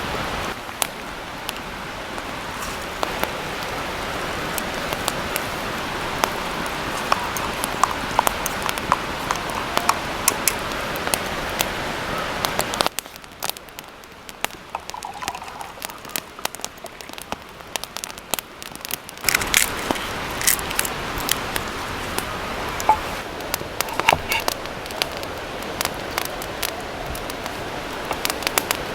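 Wood fire crackling with frequent sharp pops over a steady hiss. It turns quieter for several seconds in the middle, then picks up again.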